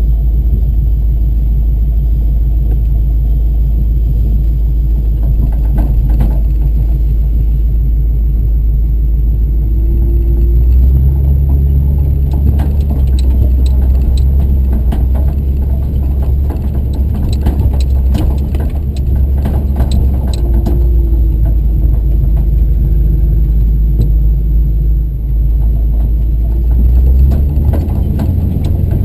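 Off-road vehicle engine running steadily under load as it drives the trail, with the engine note rising about eleven seconds in and scattered rattles and knocks from the vehicle.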